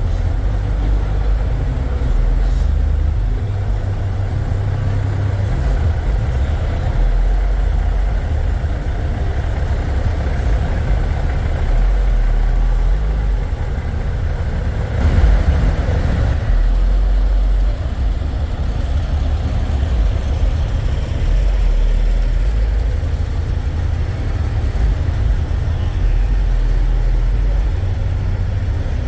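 Diesel semi-truck engines idling with a steady low rumble. About halfway through, a brief louder swell rises over it.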